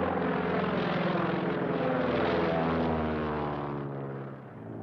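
A single-engine biplane's propeller engine drones steadily, its pitch sinking gradually through the middle. Near the end it drops in level and settles at a lower pitch, as if throttled back.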